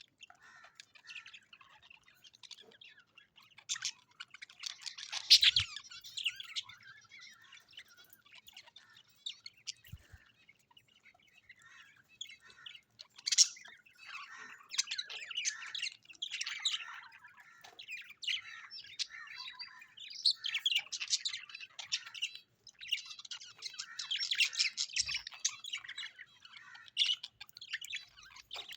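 Small parrots chattering and chirping: rapid, busy warbling in bursts with brief pauses, and a few sharper squawks.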